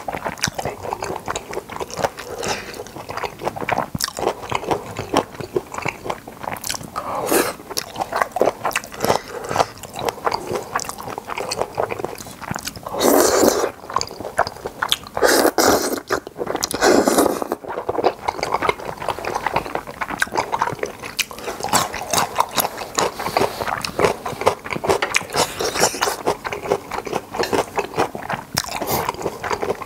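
Close-miked chewing of boneless chicken feet and thick Chinese glass noodles, with a few louder slurps of noodles about halfway through.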